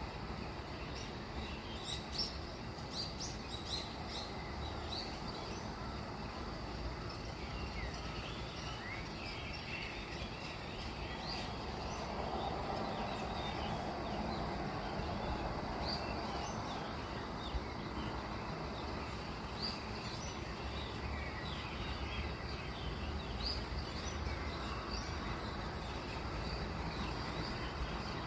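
Small birds chirping in short, scattered calls over a steady low background hum that swells a little around the middle.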